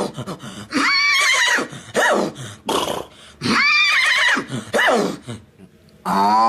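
A man imitating a horse with his voice: a run of high, wavering whinnies that slide down in pitch, one after another. A lower call begins near the end.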